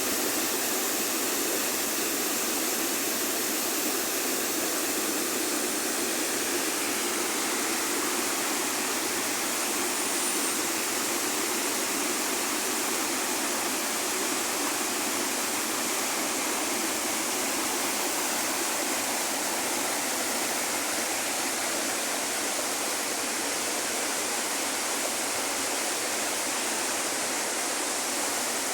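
River water flowing, a steady, unbroken rush with no change in level.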